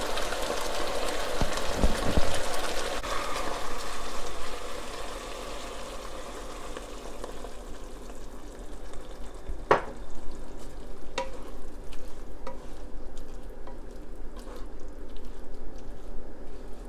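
Kung pao sauce sizzling in a wok as cornstarch slurry is stirred in to thicken it; the sizzle dies away over the first several seconds. Later come a few sharp knocks and scrapes of the spatula against the wok.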